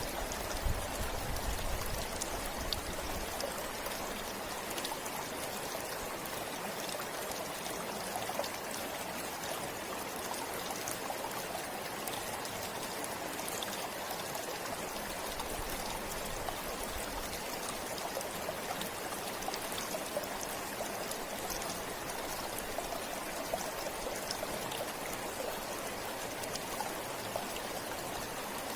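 River flowing steadily over rocks: a constant rush of water with small splashes and trickles in it.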